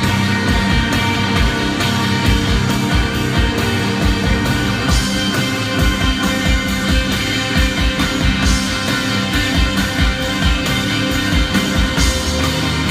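Live rock band playing: electric guitars sustaining over a fast, steady drum beat.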